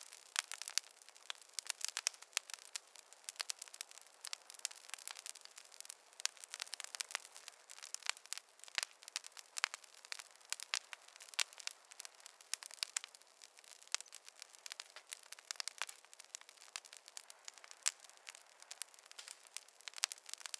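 Wood fire crackling in a fireplace: a dense, irregular run of sharp pops and snaps over a faint hiss, with no low rumble beneath.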